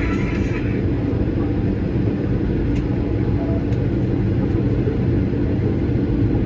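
Steady low rumble in the cabin of an Airbus A220-300 taxiing, with its Pratt & Whitney PW1500G geared turbofans at idle. A higher tone dies away in the first second, and there are two faint clicks near the middle.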